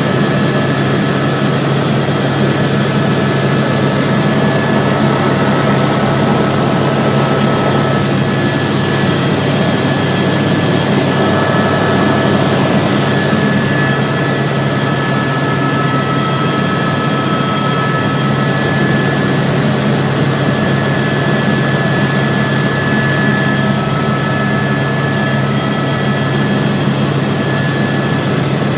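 Helicopter in flight heard from on board: a loud, steady drone of turbine and rotors that holds unchanged throughout.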